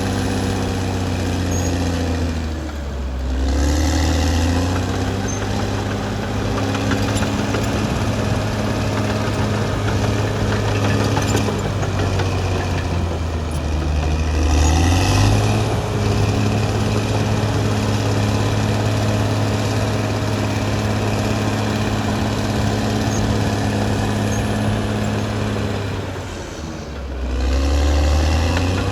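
Caterpillar D6R XL bulldozer's diesel engine running steadily under working load, its pitch dipping and picking up again three times as the load and throttle change. A steady high whine rides over the engine.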